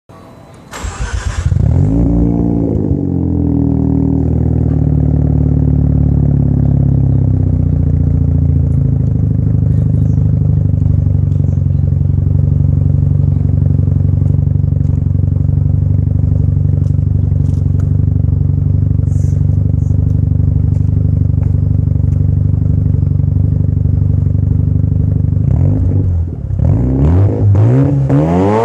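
Mazda RX-7 FD3S's twin-rotor 13B rotary engine, exhausting through a titanium GReddy Super Street muffler, starting up: a short burst of cranking, then it fires, flares and settles to a steady idle. Near the end it is blipped, the revs rising and falling several times.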